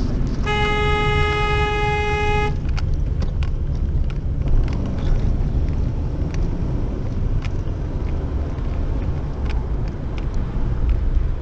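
A car horn sounds one steady blast of about two seconds, starting about half a second in, over a constant low rumble of road and engine noise.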